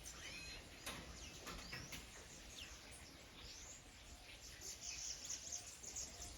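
Small birds calling faintly: scattered short high chirps and quick curved whistled notes.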